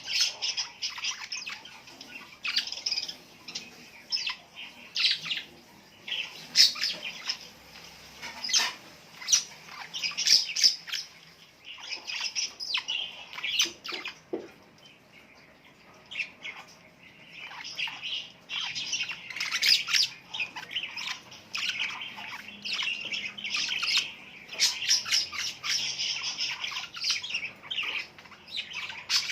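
A group of birds chirping and squawking in quick, overlapping short calls, with a quieter stretch a little before the middle.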